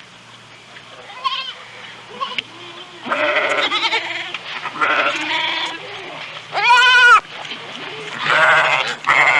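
Goat bleating repeatedly, a run of wavering calls, the loudest and longest about seven seconds in.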